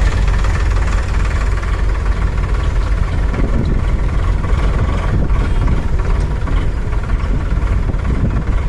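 Tractor diesel engine running steadily, loud and even throughout.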